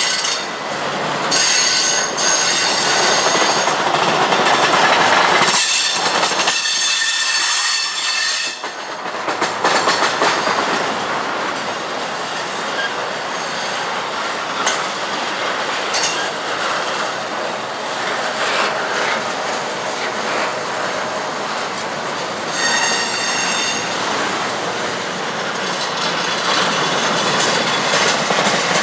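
Norfolk Southern intermodal freight cars rolling past slowly, wheels clacking over the rail joints, with spells of high-pitched wheel squeal, the longest about six seconds in and another around twenty-three seconds.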